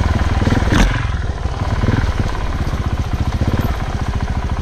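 Off-road motorcycle engine running steadily at low revs with a fast, even firing pulse, and a single dull knock about a second in.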